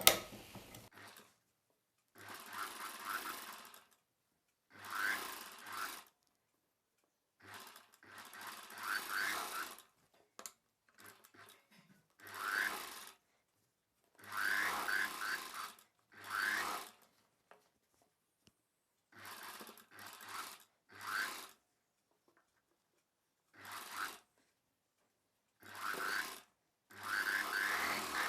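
Sewing machine stitching a sleeve onto a blouse in short runs of one to two seconds, stopping and starting about ten times.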